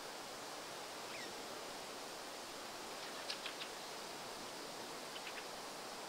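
Steady outdoor hiss with a bird's short, sharp high calls: a brief falling note about a second in, then two quick groups of three sharp notes, one around the middle and one near the end.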